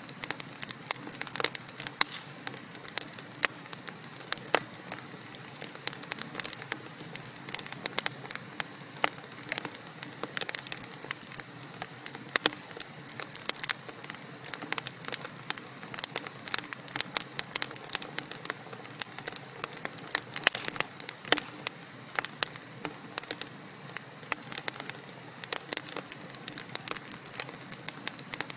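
Wood fire burning in a fireplace: logs crackling and popping in quick irregular snaps over a steady soft hiss.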